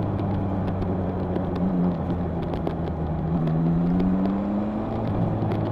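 Honda CB1000R's inline-four engine running on the move, its pitch rising gently a little past the middle as the bike accelerates, over steady road and wind noise.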